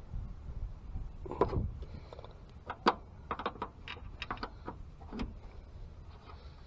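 A series of small clicks and knocks from handling the ignition box's wiring and parts, the sharpest about a second and a half and three seconds in, over a steady low rumble of wind on the microphone.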